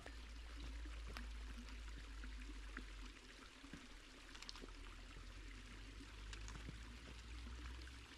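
A stream running, heard as a steady rushing hiss with a low rumble beneath it; it starts and cuts off abruptly.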